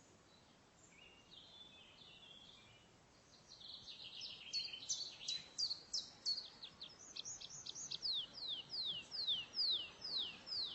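Songbird singing: faint chirps at first, then loud fast trills a few seconds in, then a run of clear descending whistled notes, about two or three a second, to the end. A faint steady hiss underneath.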